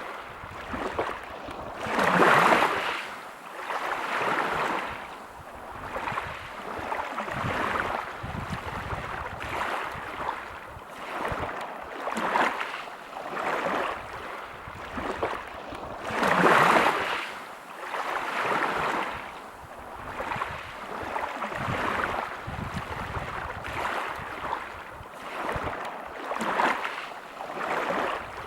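Sea waves breaking on a pebble beach, the wash swelling and fading every second or two, with two bigger waves crashing near the start and about halfway through.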